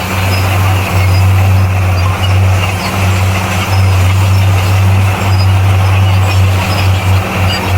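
Heavy earthmoving machine's diesel engine, most likely a bulldozer's, running steadily with a deep drone and a few brief dips.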